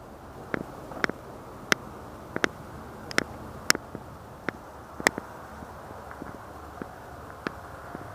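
Sharp clicks at irregular intervals, about one or two a second, over a steady low hiss.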